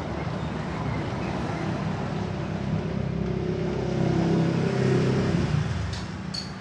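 Engine of a motor vehicle running close by, a low steady drone that swells about four seconds in and fades away near the end, like a vehicle passing. A few light clicks come right at the end.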